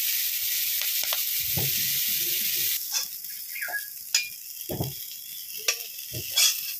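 Prawns sizzling in hot oil in a kadai as they are lifted out with a metal spatula. After about three seconds the sizzle drops away, and several sharp clinks of the metal spatula against a steel bowl follow as the fried prawns are tipped in.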